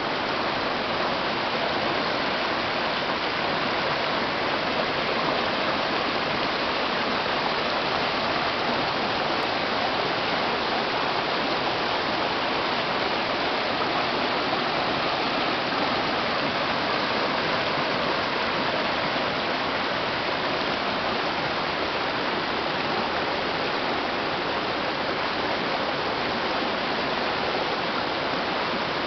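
River water flowing, a steady, unbroken rush of noise that does not change.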